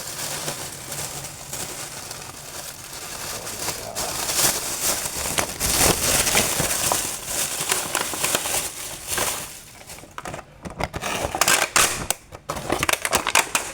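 Takeaway food packaging crinkling and rustling as it is unwrapped by hand, with sharper, irregular crackles in the last few seconds.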